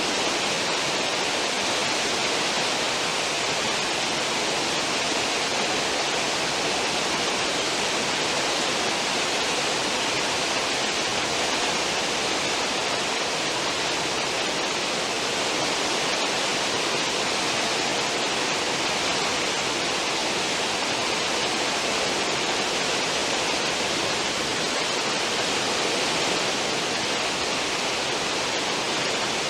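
Cruise ship's stern wake churning: a steady, unbroken rush of water.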